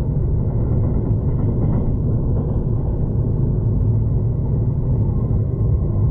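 Steady low rumble of a V/Line passenger train under way, heard from inside the carriage.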